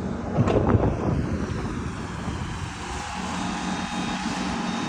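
Tractor engine running steadily, with a brief louder rumble about half a second in.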